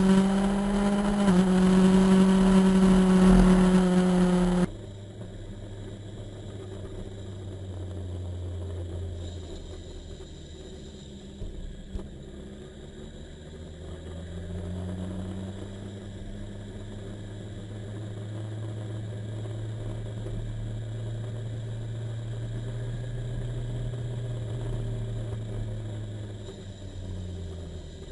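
Motorcycle engine running while riding. It is loud and high-pitched for the first few seconds, then drops suddenly to a quieter, lower note whose pitch slowly rises and falls with changes of speed.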